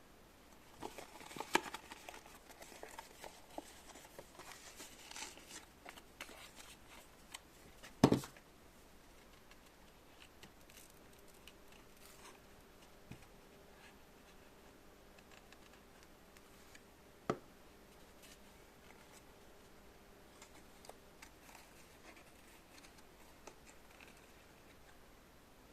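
Small handling noises: light clicks, scratching and rustling for the first several seconds, then a sharp knock about eight seconds in and another about seventeen seconds in, with a faint steady hum between them.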